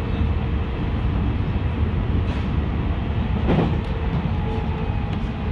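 Tokaido Line electric train running, a steady low rumble with a faint whine, and a single short thud about three and a half seconds in.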